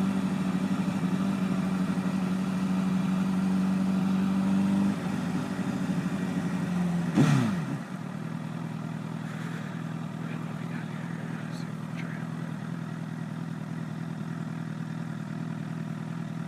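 Honda CBR1000RR inline-four motorcycle engine running steadily at low speed. Its note drops about five seconds in. A short sharp sound with a quickly falling pitch comes about seven seconds in, and then the engine runs on steadily at the lower note.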